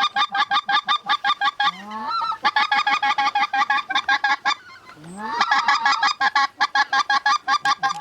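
Goose calls blown in fast, evenly paced honking and clucking, about seven notes a second, broken twice by a short pause with a low rising moan, about two and five seconds in.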